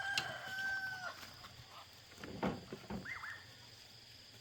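A rooster crowing, the call held steady for about a second before it falls away. A few knocks and a short rising-and-falling call follow about halfway through.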